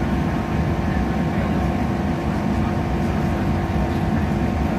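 Passenger train running at speed, heard inside the carriage: a steady low rumble with a constant engine and traction hum over it.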